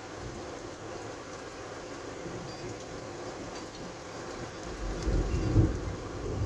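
Steady rain and wind noise of a severe thunderstorm, with a louder low rumble swelling about five seconds in and fading within a second and a half.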